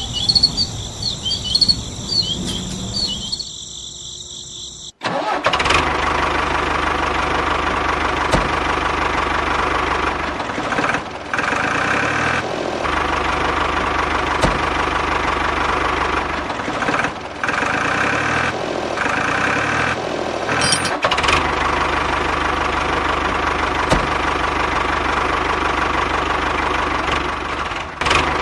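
Crickets chirp for the first few seconds. Then, after a sudden break, an engine starts and runs steadily, its note changing briefly several times.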